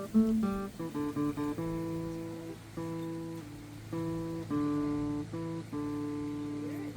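Steel-string acoustic guitar playing a blues phrase: a few quick single notes, then ringing chords held for about half a second to a second each.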